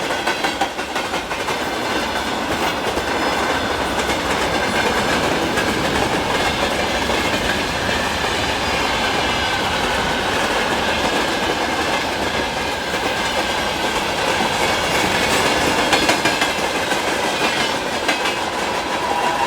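An electric train passing close by: steady loud rolling of wheels on rails with a clickety-clack over the rail joints.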